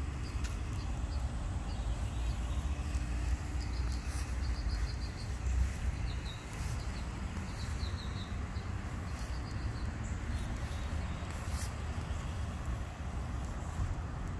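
Outdoor ambience: a small bird chirping in short, quick runs of high notes several times, over a steady low rumble.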